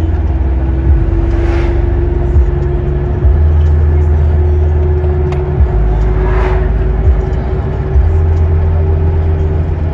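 Steady low rumble of a moving car's engine and road noise, the engine note rising slowly. Two vehicles rush past, about a second and a half in and again about six seconds in.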